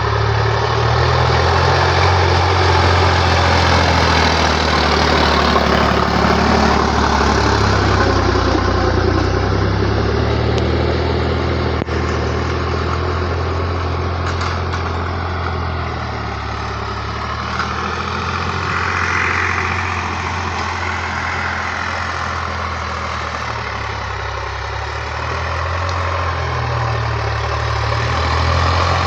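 Sonalika diesel tractor engine running steadily with a low drone. It eases off slightly through the middle and picks up again near the end.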